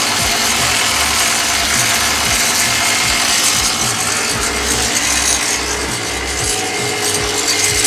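Old engine running steadily after being started, with a regular rhythmic mechanical clatter.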